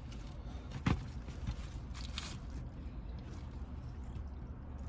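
Person eating and handling food, with a sharp click about a second in and a soft crackle about two seconds in over a low steady hum.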